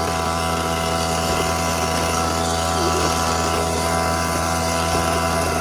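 Small petrol engine of a kids' quad bike running at steady revs, one even pitch with no revving up or down.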